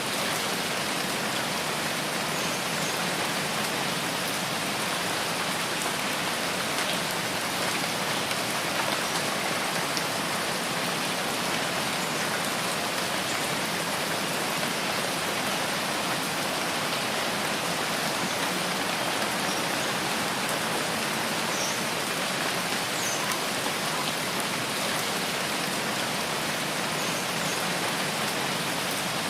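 Steady rainfall, an even hiss of drops with no letup, with a few faint short high chirps here and there.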